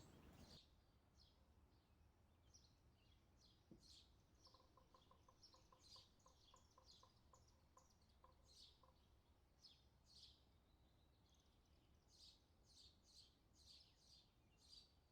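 Faint birds chirping in the background, short high calls repeated throughout. For a few seconds in the middle there is also a faint run of quick ticks, about four a second.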